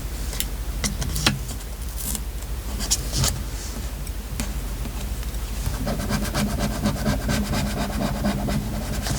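Hands working with paper crafting materials: scattered light clicks, taps and rustles, then from about six seconds in a sustained rattling buzz, like tape being drawn off a roll.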